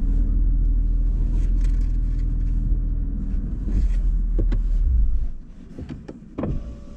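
Car engine running with a low rumble, then shut off about five seconds in. A few clicks follow, and a steady tone begins near the end.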